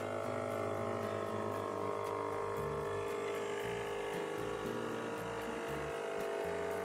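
Corded jigsaw running steadily as it cuts across a panel door to split it in half, a constant motor whine under load.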